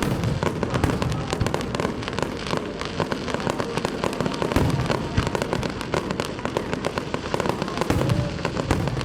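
A dense fireworks barrage: rapid, continuous crackling and popping of bursting shells, with heavier low booms mixed in every few seconds.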